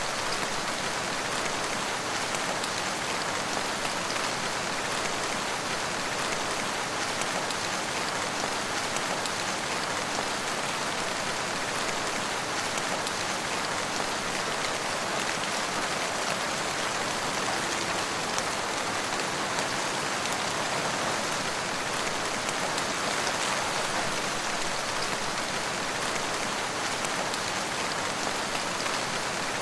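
Steady rain falling and pattering on surfaces, an even hiss with fine drop texture and no let-up.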